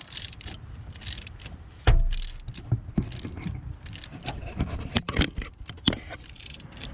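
Metal hand tools clicking and clinking in an engine bay: a 5/8 spark plug socket on an extension and ratchet being handled at a spark plug well, in irregular taps with one heavy knock about two seconds in.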